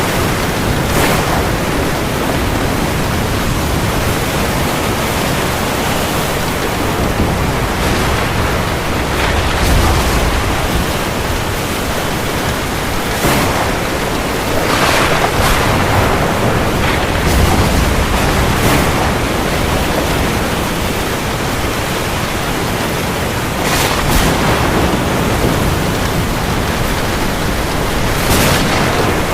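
Heavy rain falling as a steady, dense hiss. Every few seconds a brief, louder rush of drops rises out of it.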